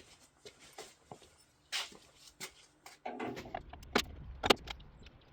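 Workshop handling sounds of tools and parts: scattered light clicks and knocks, a short scrape about two seconds in, then a low rumble with two sharp knocks about four and four and a half seconds in.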